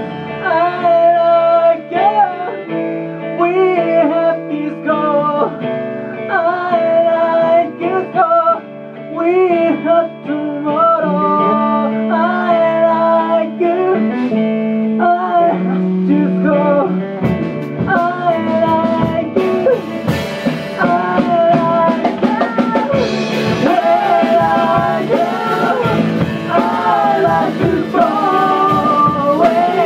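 A band playing a rock song: guitar and drums under a sung melody of improvised placeholder vocals, made up before the lyrics were written. The cymbals come in fuller about halfway through.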